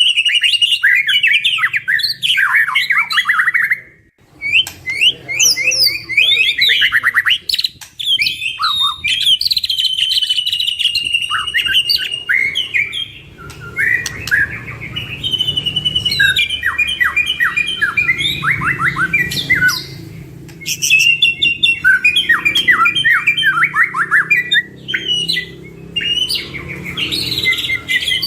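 White-rumped shamas (murai batu) singing hard: a long, fast medley of varied whistles, rapid trills and chattering mimicked phrases, broken by a few short pauses.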